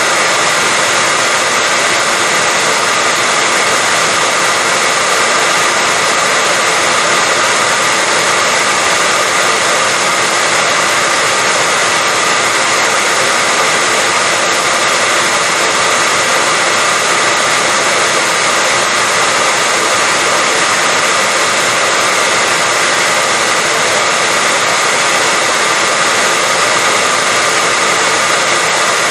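Electric hair dryer running continuously: a steady, unchanging blowing whir with a faint high whine, played as white noise to lull a baby to sleep.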